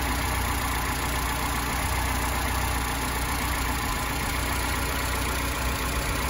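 VAZ-2107's fuel-injected four-cylinder engine idling steadily and very quietly, heard up close at the open engine bay.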